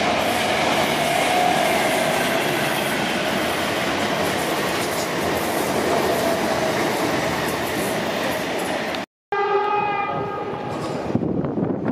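Electric passenger train running through the station with a steady, loud rush of wheel and rail noise. After a short break, a train horn sounds once for under a second, followed by wheels clattering over the rail joints.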